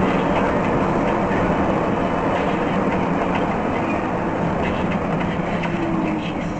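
Steady rumble and rattle of a vehicle in motion, with faint clicks through the middle, easing off slightly near the end.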